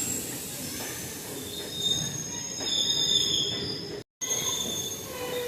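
Passenger train's steel wheels squealing on the rails over a low running rumble, several high squeal tones loudest in the middle. The sound breaks off for a moment about four seconds in, then the squeal resumes.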